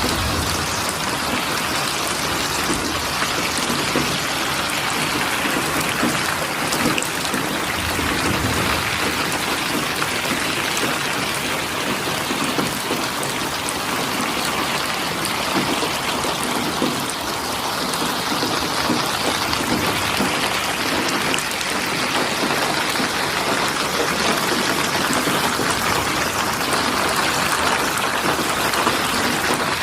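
Steady rain falling, with many fine drops pattering on a surface and no let-up.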